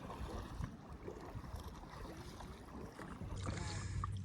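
Sea kayak on open water: water sloshing around the hull, with wind on the microphone. A steady low hum comes in about three seconds in.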